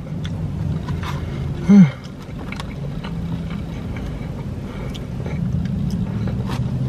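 Chewing and wet mouth sounds over a steady low hum from the car's idling engine. About two seconds in there is a short hummed "mm" that rises and falls in pitch.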